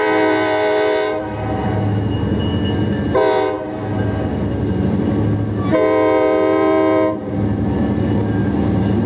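Locomotive air horn sounding in blasts: the end of a long blast, a short blast about three seconds in, then a longer blast near six seconds, in the rhythm of a grade-crossing signal. Under it the train's steady low running sound continues.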